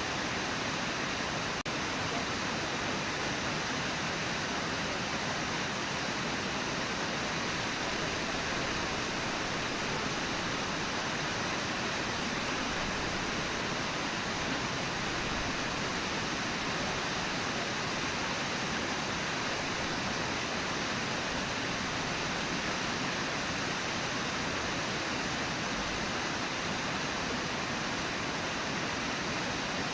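Steady rush of the Brooks River's water, an even wash of noise that does not change.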